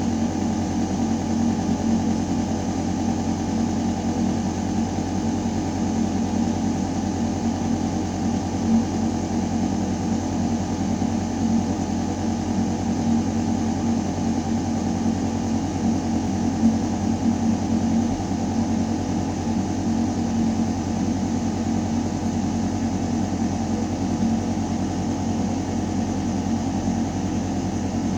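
Building ventilation system running in a shaft: a steady deep mechanical hum with a few held tones over the rush of air moving through metal ductwork.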